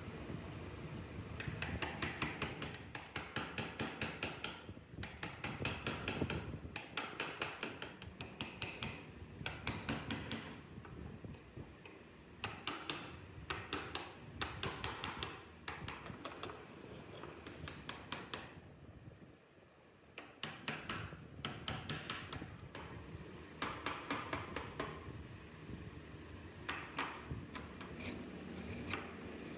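Hand wood carving: quick runs of small, sharp taps and cuts of a tool on wood, coming in bursts of a second or two with short pauses.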